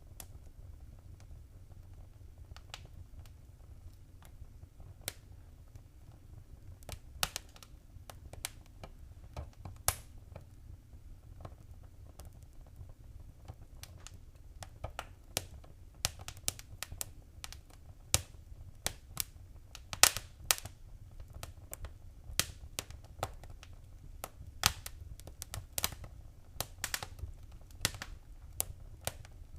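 Fireplace fire crackling: irregular sharp pops and snaps over a low steady rumble, few at first and coming more often from about halfway.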